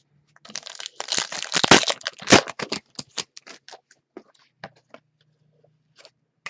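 A foil trading-card pack being torn open and crinkled, then the cards handled with a few light clicks and rustles.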